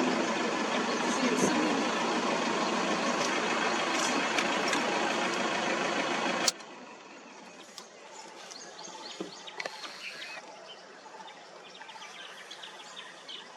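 A safari vehicle's engine running loudly, cutting off suddenly about six seconds in. After it, quiet outdoor background with faint bird chirps.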